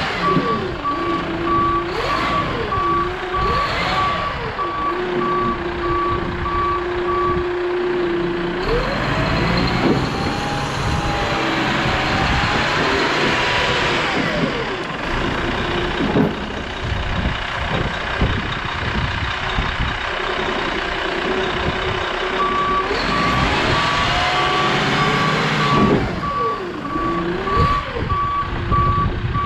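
Bobcat 753 skid-steer loader running and moving, its engine revving up and down repeatedly. A reversing alarm beeps steadily for the first several seconds, stops, and starts again about three quarters of the way through.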